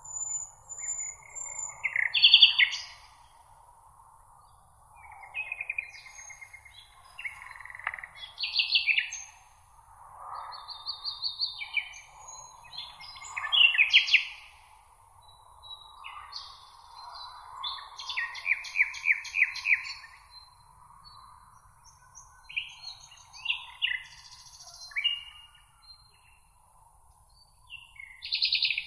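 Several songbirds singing in a meadow chorus: overlapping short phrases of trills, chirps and rapid repeated notes from more than one bird, over a faint steady high hiss.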